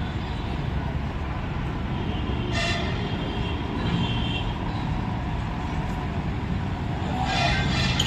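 Dumper truck engine running steadily while the truck is driven. Two short higher-pitched sounds cut in over it, about two and a half seconds in and near the end.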